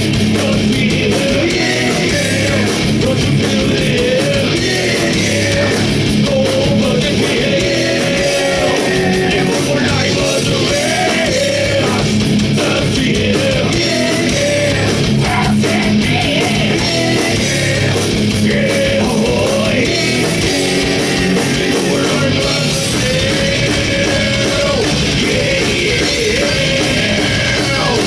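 Heavy rock band playing live: loud, dense guitars and drums with a sung, partly yelled vocal line over a steady beat.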